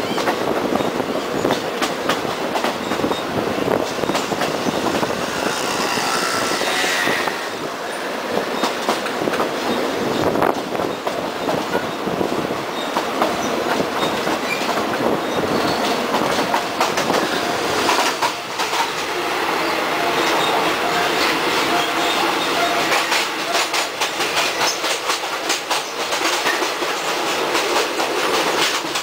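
Locomotive-hauled passenger train running along the track, its wheels clicking steadily over rail joints. A brief high squeal comes about six seconds in.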